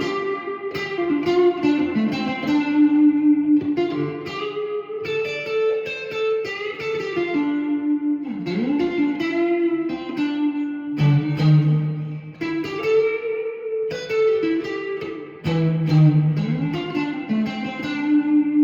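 Tokai AST 114SH Stratocaster-style electric guitar playing a melodic lead line of single picked notes and double-stops, with string bends rising into notes about halfway through and again near the end.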